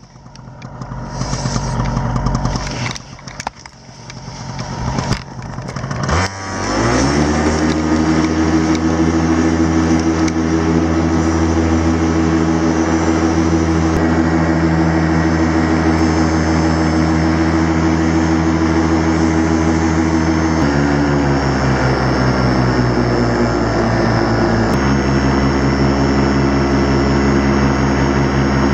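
Miniplane Top 80 paramotor's two-stroke single-cylinder engine with a freshly rebuilt top end, starting up: a few seconds of uneven sputtering, then it catches with a rising pitch about seven seconds in and runs steadily. Its pitch drops for a few seconds near the end, then returns.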